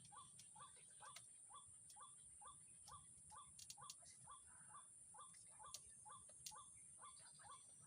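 Faint outdoor animal chorus: a short rising call repeated very evenly about twice a second, over a steady high-pitched insect drone, with a few faint clicks.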